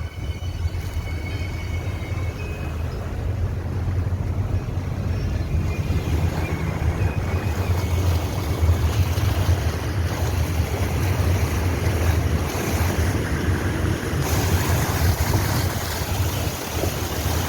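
Car driving through deep floodwater: water rushing and splashing against the car over the engine's low drone. The water noise builds from about six seconds in and turns hissier near the end.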